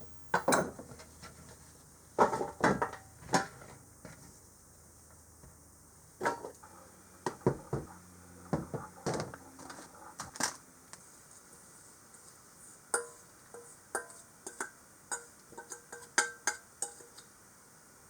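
Kitchen prep: a knife chopping apples on a cutting board and utensils clinking against dishes, in sharp, irregular taps, with a quicker run of taps near the end.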